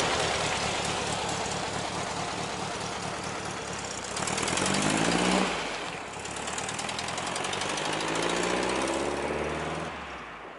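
Volkswagen Beetle's air-cooled flat-four engine accelerating away. The revs climb, drop at a gear change about halfway through, then climb again, and the sound fades as the car draws off near the end.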